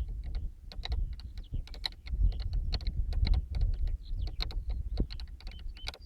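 Irregular clicking and ticking from a Walkera V450D03 RC helicopter's drivetrain, over a low rumble, with a few short high squeaks; the owner suspects it comes from the main gear's one-way bearing (freewheel).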